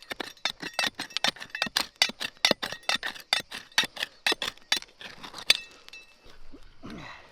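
Rapid metal strikes with a ringing clink, about four a second, ending about five and a half seconds in.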